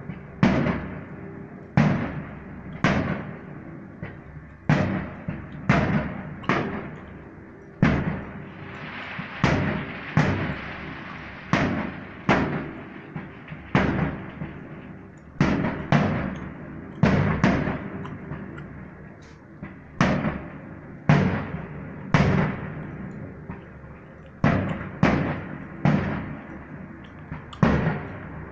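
Aerial firework shells bursting in a salute display, sharp bangs coming roughly once a second, each trailing off in a rolling echo. About ten seconds in, a hissing crackle fills the gaps between the bangs for a couple of seconds.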